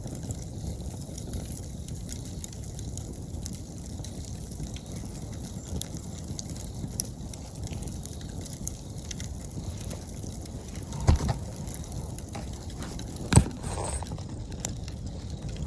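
Wood campfire crackling, with scattered small pops over a steady low rumble and two louder snaps about eleven and thirteen seconds in. Autumn insects sing faintly and steadily at a high pitch.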